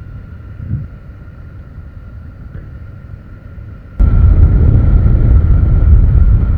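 Motorcycle on the move: a steady low rumble that jumps abruptly to a much louder rumble about four seconds in.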